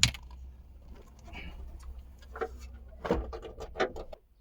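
A sharp click, then a few light clicks and taps of small hand-tool and plastic-part handling as a small screwdriver is worked on a brake-light connector; the sound cuts to dead silence near the end.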